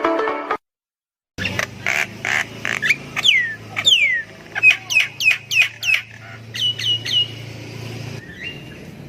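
Javan myna (jalak kebo) calling: after a brief burst of plucked-string music and a short silence, a run of harsh squawks and clicks mixed with downward-sliding whistles, then a few quick repeated notes and a single rising note. A low hum sits under the calls.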